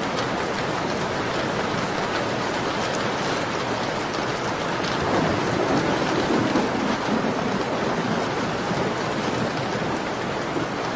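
Steady rain pattering on a window, with a swell in its lower rumble about halfway through.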